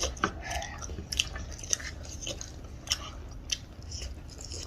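Close-miked chewing and mouth sounds while eating: soft, wet clicks and smacks at irregular intervals.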